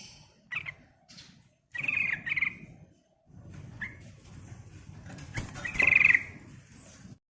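Sooty-headed bulbul (trucukan) calling in short trilled phrases, loudest about two seconds in and again around six seconds, with a low rustling noise between the calls. The sound cuts off suddenly near the end.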